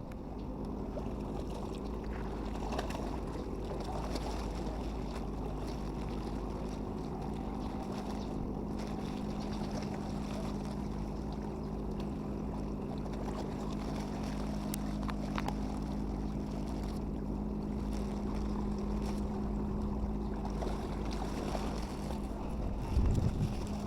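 An engine running steadily with a constant low hum, and a brief louder rumble near the end.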